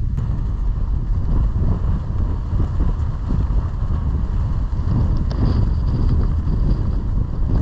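Strong gusting wind buffeting the microphone, a loud, uneven low rumble.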